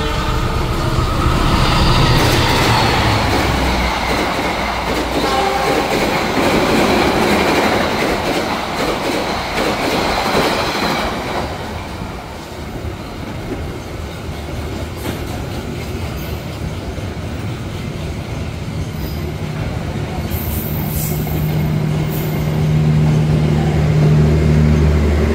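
Two passenger trains passing each other through a station. A loud rush of wheel and rail noise from coaches rolling past at speed lasts about ten seconds, then eases into a steadier rumble. A low engine hum builds near the end.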